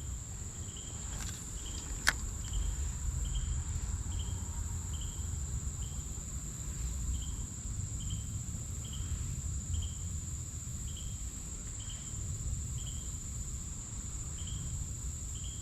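Insects calling: a steady high-pitched buzz with a short chirp repeating about once a second. Under it is a low rumble, and there is a single sharp click about two seconds in.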